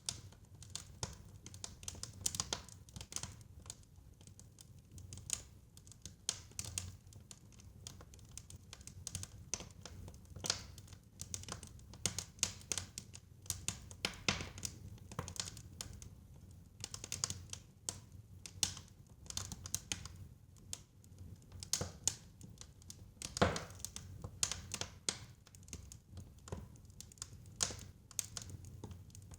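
Wood fire crackling in a fireplace: irregular sharp pops and snaps, several a second, over a low steady rumble of the flames, with one louder pop about three quarters of the way through.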